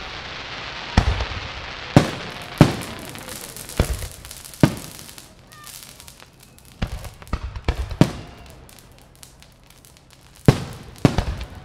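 Aerial fireworks shells bursting: a series of sharp booms, each trailing off in an echo, then a quick string of smaller crackling pops, and two heavy bangs close together near the end.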